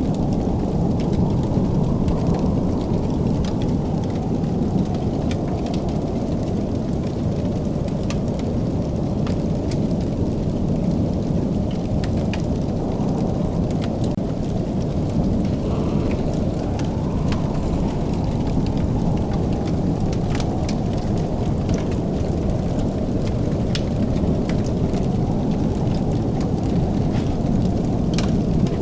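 Fire crackling in a fireplace: scattered sharp crackles over a steady low rumble.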